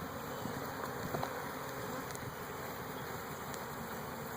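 Honeybees buzzing in a steady drone around an opened hive, a colony the beekeeper says is getting angry.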